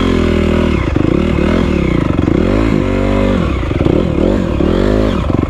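Honda CRF250R dirt bike's four-stroke single-cylinder engine being ridden, its revs rising and falling again and again as the throttle is opened and closed, with rattling and scraping from the bike over rough ground.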